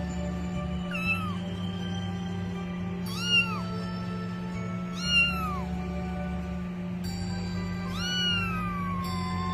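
A cat meowing four times, each call rising then falling in pitch, the last one long and drawn out, over background music.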